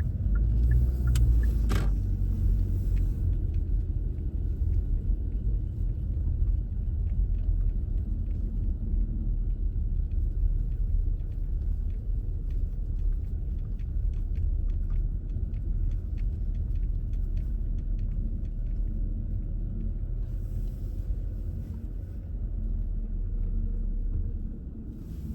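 Car driving, a steady low rumble of engine and tyres.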